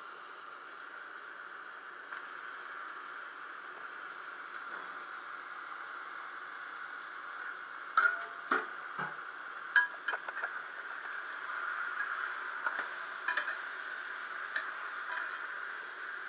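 Chicken pieces sizzling as they fry in onion-tomato masala in a heavy pan, a steady hiss. From about eight seconds in, a slotted metal spatula clinks and scrapes against the pan as the chicken is stirred in.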